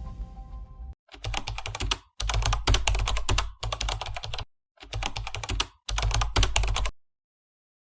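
Rapid computer keyboard typing in five short bursts of about a second each, every burst cut off abruptly into silence.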